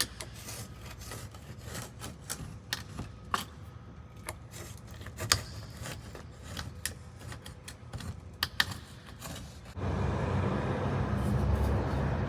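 Scattered light clicks and taps, irregular, a few each second. About ten seconds in, a louder steady rumbling noise with a low hum starts.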